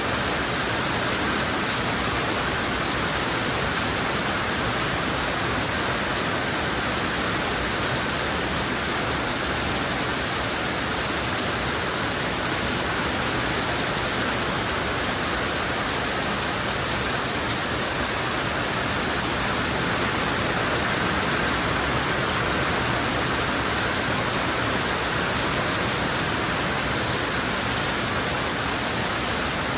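Heavy rain falling and pouring down steadily in an even, unbroken hiss.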